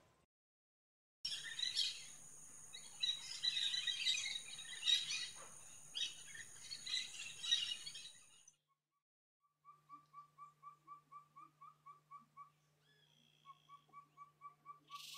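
Birds chirping over a high, steady whine. After a short break, a bird repeats a short whistled note about four times a second.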